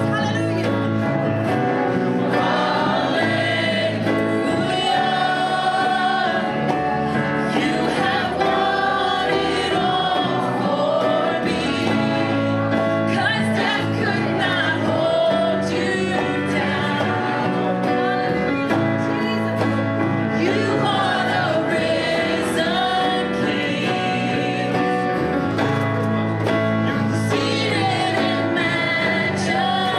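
Gospel music with voices singing together over instrumental accompaniment, continuous throughout.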